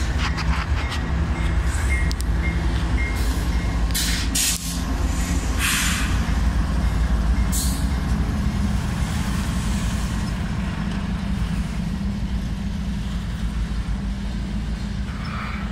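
BNSF diesel locomotives passing close by at low speed, a steady deep engine drone, with a few short hisses about four, six and seven and a half seconds in. Double-stack container cars follow, rolling by near the end.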